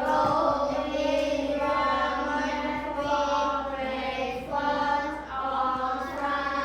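Children's voices chanting together in a long, drawn-out sing-song, each syllable held for about a second.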